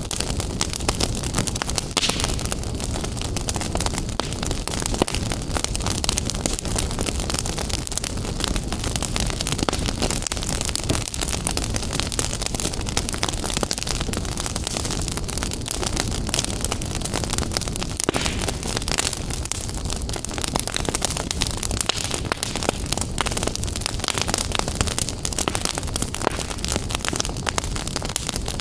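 Wood fire burning in a fireplace: a steady low rush of flames with dense, continuous crackling and popping throughout.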